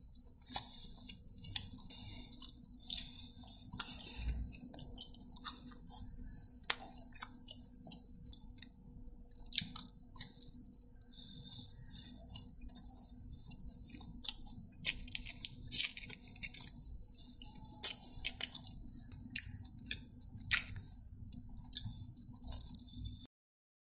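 A person chewing and eating, close to the microphone: irregular wet mouth smacks and lip clicks, over a faint steady low hum. The sound cuts off abruptly near the end.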